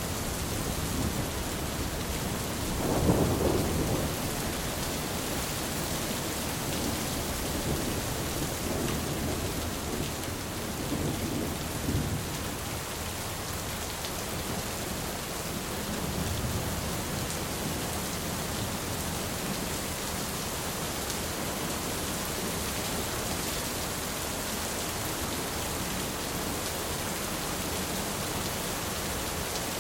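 Steady heavy rain in a thunderstorm, with a roll of thunder about three seconds in and fainter low rumbles later on.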